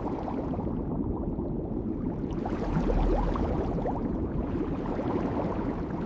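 Steady crackling and splashing noise of water and plastic being handled, with many small ticks and gurgles.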